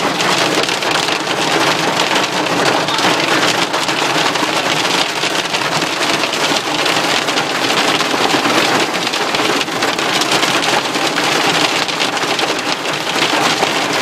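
Hail and rain pelting a moving car's roof and windshield, heard from inside the cabin: a dense, steady rattle of many small impacts.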